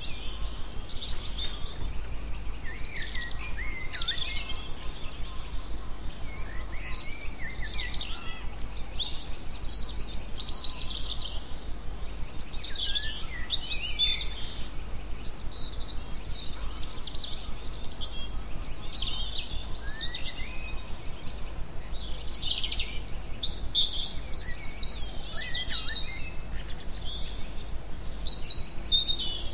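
Songbirds chirping and singing, many short overlapping calls one after another, over a steady low hum.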